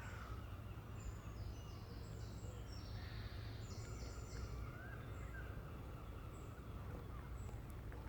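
Songbirds singing in woodland: short high phrases that step down in pitch, several in the first half, over a steady low rumble.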